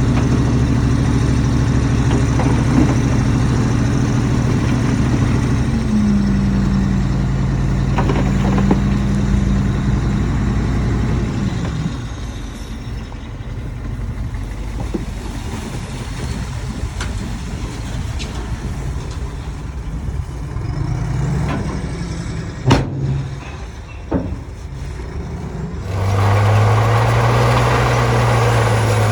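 Heavy diesel engines of earthmoving machinery running with a steady drone, which falls away about twelve seconds in. A couple of sharp knocks come later. Near the end a louder engine starts abruptly.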